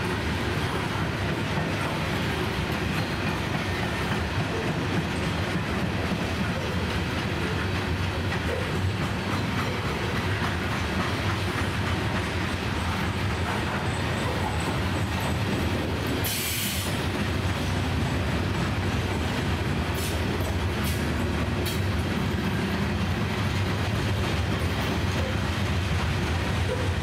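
Norfolk Southern freight train of open-top hopper and gondola cars rolling steadily past, a continuous rumble of steel wheels on the rails. A brief high hiss cuts in about two-thirds of the way through.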